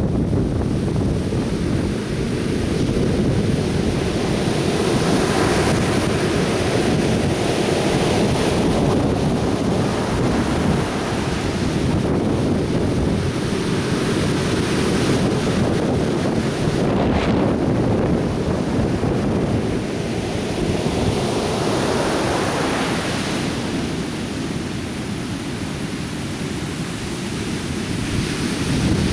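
Atlantic surf breaking and washing on the beach in a steady roar, with waves swelling every few seconds, and wind buffeting the microphone.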